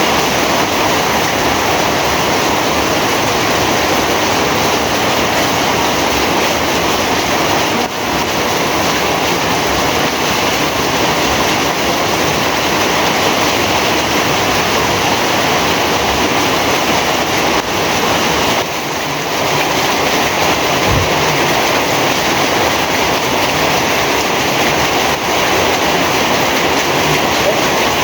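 Heavy rain falling steadily, a loud, dense, even wash of noise without let-up.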